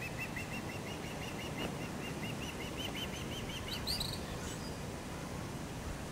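Gray kingbird calling: a fast run of short repeated notes, about five a second, that ends about four seconds in with a sharper, higher note.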